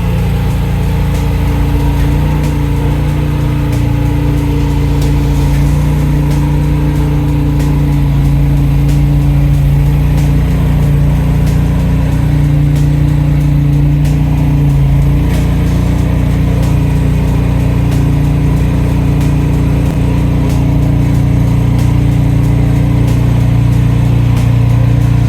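An engine running steadily, its pitch shifting slightly a couple of times.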